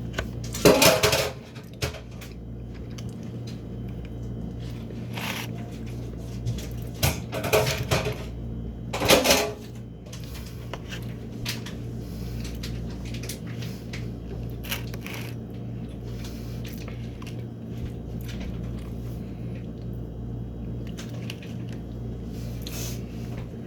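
Clatter of a fork and dish or container being handled while eating cake, with sharp knocks about a second in and again around nine seconds, and smaller ones between, over a steady low hum.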